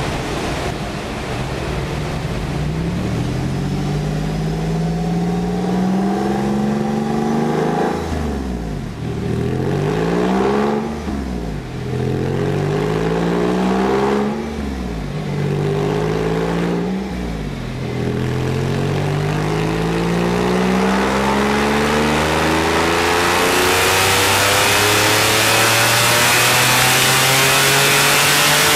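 Porsche 911 flat-six at full throttle on a chassis dynamometer during a power run. The revs climb and drop back at four upshifts, then climb slowly in the last gear, getting louder near the end.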